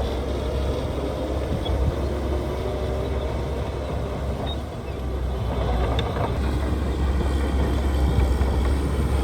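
Heavy diesel engine of earthmoving machinery running steadily with a deep rumble. It eases off briefly about halfway, then grows louder again.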